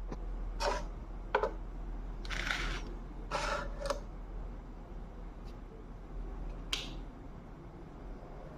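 A handful of short clicks and scraping rustles, irregularly spaced, over a faint steady low hum.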